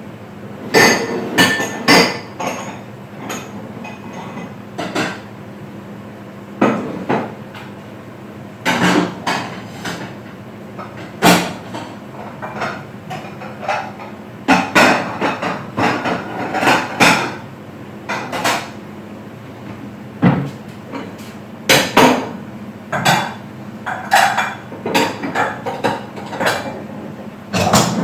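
Irregular knocks and clinks of kitchen utensils, pans and dishes being handled, coming in clusters over a steady low hum.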